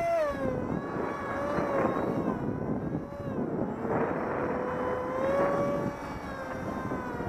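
Electric RC plane's 2200 kV brushless motor spinning a 6x4 propeller: a whine that drops in pitch about half a second in, then rises and falls as the throttle changes. Gusts of wind buffet the microphone.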